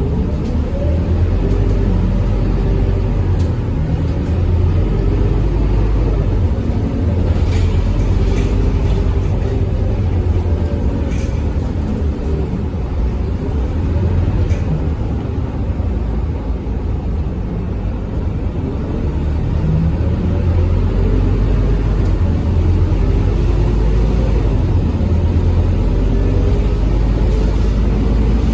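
Scania K230UB city bus's diesel engine running, with a deep steady rumble and an engine note that rises and falls as the bus pulls away and slows. A few short clicks or rattles come around the middle.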